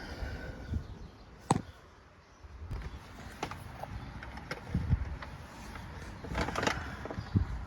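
Scattered light clicks and knocks of handling, with one sharp click about one and a half seconds in and small clusters of knocks later.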